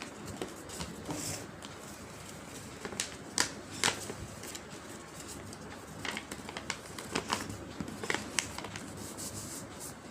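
A sheet of paper being handled and folded: faint rustling with scattered sharp crinkles and creasing clicks, the sharpest a few seconds in.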